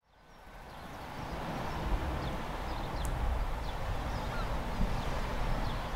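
Birds chirping in short, scattered calls over a steady low background noise, fading in from silence over the first two seconds.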